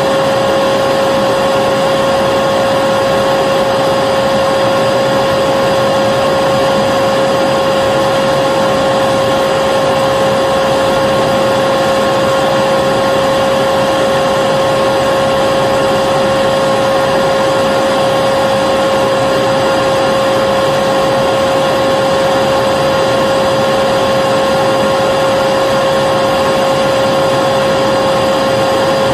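Vacuum cleaner running continuously at one speed: a steady rush of air with a constant whine, unchanging throughout.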